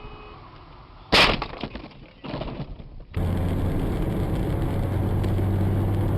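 A sudden loud crash with breaking glass about a second in, followed by a smaller crunching burst about a second later: a vehicle collision. After an abrupt cut, a steady low vehicle engine drone.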